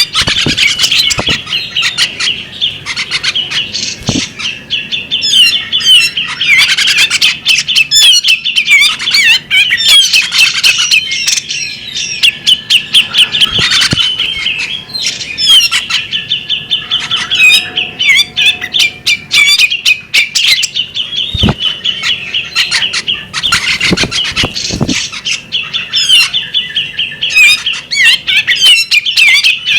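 Female bearded magpie robin singing: a loud, nearly unbroken run of quick, varied chirping notes with many short, sharp ticks in between.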